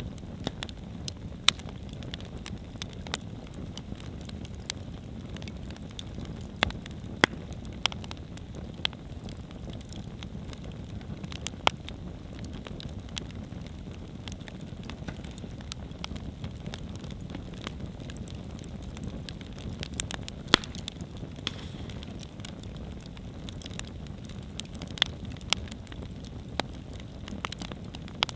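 Outdoor wood campfire burning, with a steady low rush of flame and frequent irregular crackles and pops of burning wood, a few sharper pops standing out.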